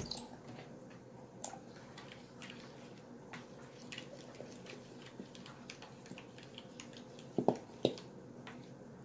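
Scattered small clicks and taps of slime-making things being handled on a table, a spoon and a glue bottle among them, with two louder knocks close together about seven and a half seconds in.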